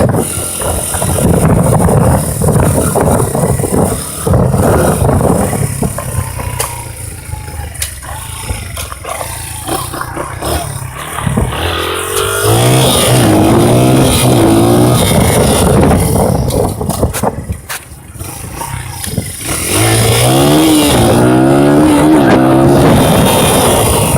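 Dirt bike engine running loud. Twice its revs climb and drop in quick repeated steps.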